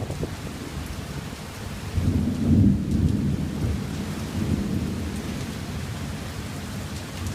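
Thunder rumbling over steady rain, with a louder roll of thunder building about two seconds in and slowly dying away.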